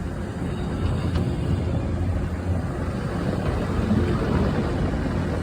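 Freight train running by at restricted speed: a steady low rumble.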